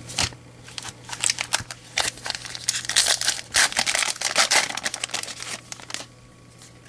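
Baseball trading cards being handled and flipped through by hand: a busy run of quick clicks, slaps and rustles that stops about six seconds in.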